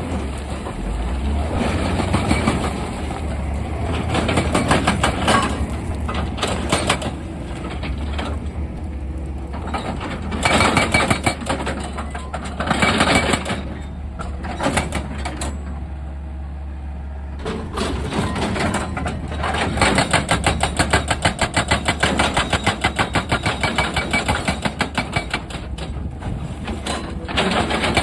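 Excavator's diesel engine running, with long runs of fast, rhythmic metallic knocking, strongest in the second half.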